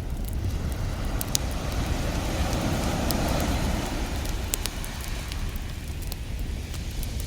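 Beach bonfire crackling with scattered sharp pops over the wash of ocean waves: a wave swells in about two seconds in and fades away by about four seconds, with a steady low rumble of surf beneath.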